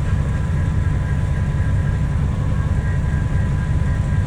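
Steady low rumble of heavy machinery at a concrete batch plant running a mix, with diesel engines and conveyor drives going and a faint steady whine above the rumble.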